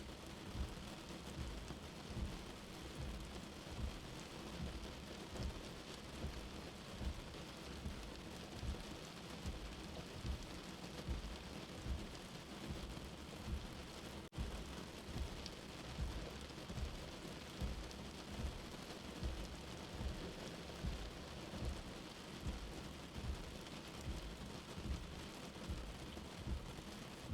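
Steady rain with a slow, low heartbeat mixed in, its soft thumps repeating at an even pace under the rain. A momentary dropout about halfway through.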